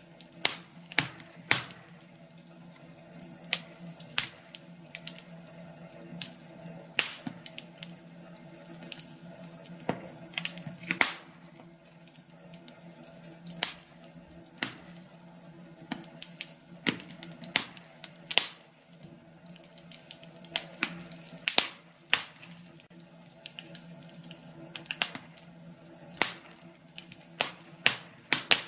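Wood fire crackling in a fireplace: irregular sharp pops and snaps, sometimes one alone and sometimes several in quick succession, over a faint steady background.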